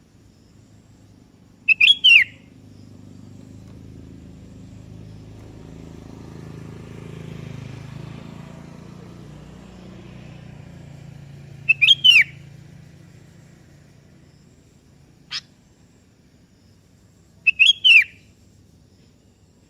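Sooty-headed bulbul (kutilang) giving three short calls, each a quick burst of a few sliding notes, about ten and then six seconds apart. A low rumble swells and fades in the background between the first two calls.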